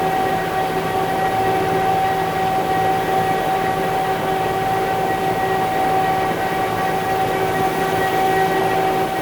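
Concrete mixer truck running steadily, its engine and drivetrain noise carrying a constant high whine that holds the same pitch throughout.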